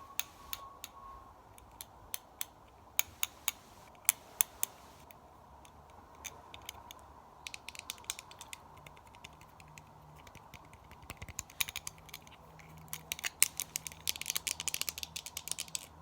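Close-miked ASMR tapping: sharp clicks of fingertips or nails on a hard object. The clicks come one by one at first, then grow into a fast, dense run of tapping over the last few seconds.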